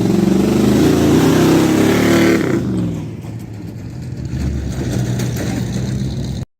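A car engine revving loudly, then falling back to a lower, steadier run about two and a half seconds in, and cutting off abruptly near the end.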